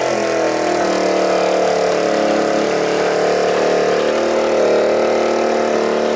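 Small single-cylinder engine of a Chinese minibike running steadily at a fast idle, its pitch dipping slightly in the first second and then holding even.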